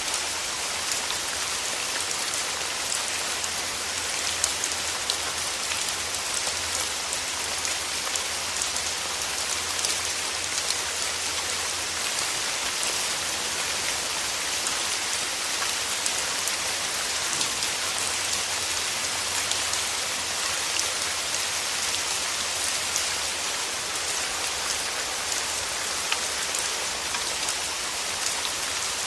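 Steady rain falling on a surface, an even hiss with many small drop clicks.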